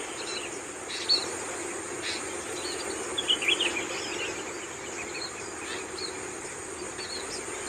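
Long-tailed shrikes calling: short high chirps and scratchy notes, with a busier burst a little after three seconds in, over a steady high insect drone.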